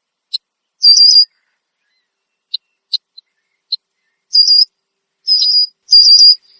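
Red-winged blackbird giving loud alarm calls: a mix of short, sharp notes and longer whistled calls, coming every half second to a second and bunching together near the end. Alarm calls, which the recordist suspects an animal nearby had set off.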